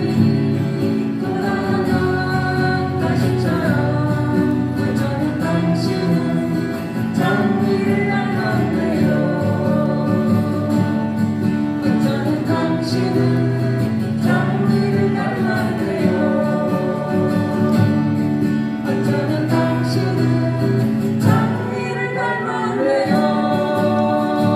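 Live performance of singing with acoustic guitar accompaniment, amplified through a PA system.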